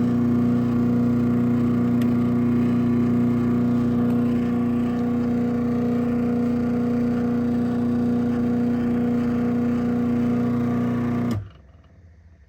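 Craftsman 139.53930DM half-horsepower chain-drive garage door opener running as it opens the door: a steady motor hum with a fixed pitch that stops abruptly near the end.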